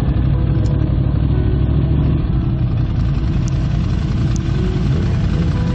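Motorcycle engine running with a steady, low rumble.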